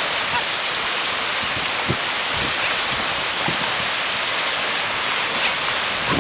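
Steady rushing of surf on the beach, with wind buffeting the microphone in short low thumps now and then.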